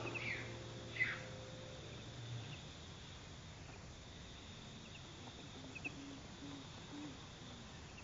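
Outdoor ambience: a small bird gives two quick falling chirps about a second apart near the start, then a few faint short chirps, over a steady faint high-pitched drone.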